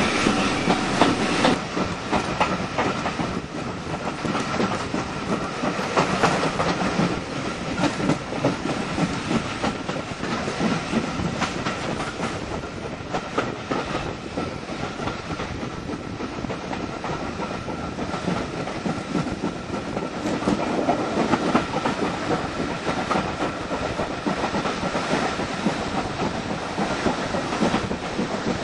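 Train running along the line: a steady rumble of wheels on rails with repeated clicks over rail joints and a thin steady whine.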